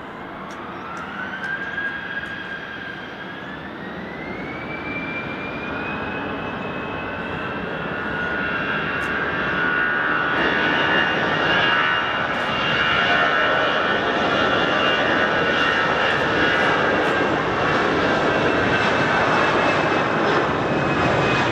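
Airbus A320 jet engines spooling up to takeoff thrust: a whine rising in pitch over the first several seconds, growing louder and settling into a loud, steady engine sound for the takeoff run.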